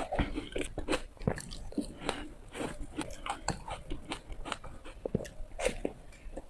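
Ice being bitten and crunched between the teeth close to the microphone: a fast, irregular run of sharp cracks and crunches.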